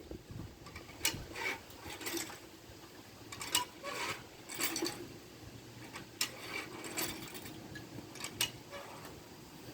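Irregular sharp metallic clicks and knocks, roughly one every second or so, from hand work on metal lifting gear and tools.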